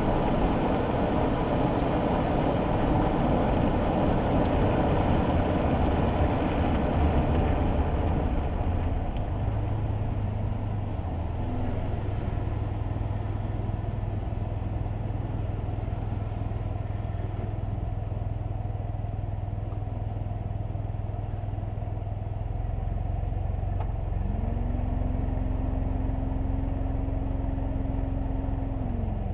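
Kei car cabin noise while driving in the rain: tyre hiss and engine hum. The hiss is heavier for the first eight seconds or so, then eases to a steadier low hum. Near the end a low tone rises, holds for about five seconds, and falls away.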